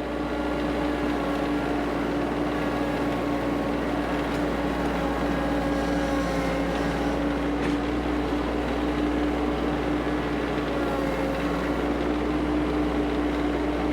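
Kioti CS2520 subcompact tractor's three-cylinder diesel engine running steadily with an even hum.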